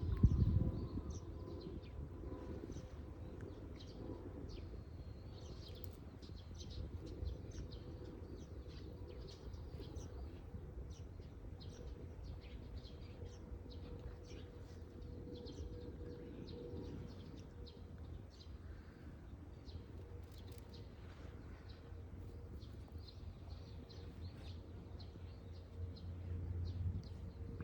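Birds chirping over a steady low outdoor rumble, with a faint steady hum and a single low knock about half a second in.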